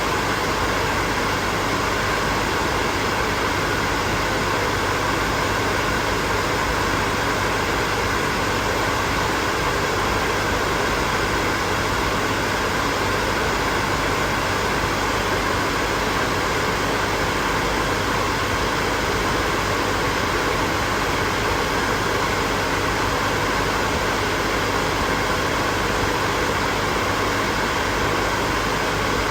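Hair dryer running steadily: an even rush of blown air with a faint motor hum, unchanging in level.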